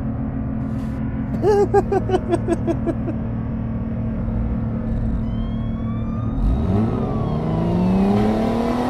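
Cartoon vehicle engine sounds: a steady low engine hum, with a quick run of about ten short, wavering pitched sounds between about one and a half and three seconds in. Over the last couple of seconds a car engine revs up, rising steadily in pitch.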